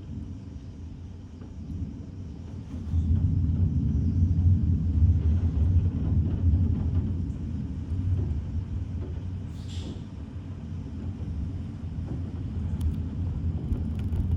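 Deep rolling rumble of thunder that swells about three seconds in, then slowly eases, with a second, weaker swell near the end.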